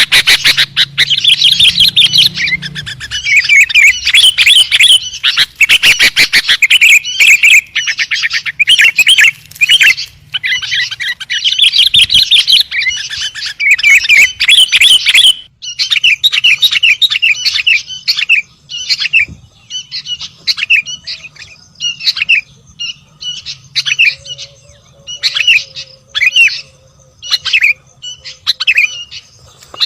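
Sooty-headed bulbul (kutilang) singing loudly: dense, rapid chirping for about the first half, then shorter separate phrases with brief gaps between them.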